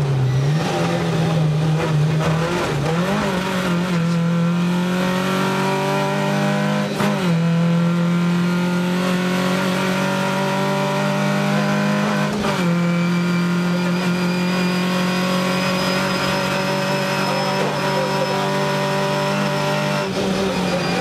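Rally car engine heard from inside the cabin, held at steady high revs under full throttle, with a brief dip and recovery every few seconds as the driver changes gear.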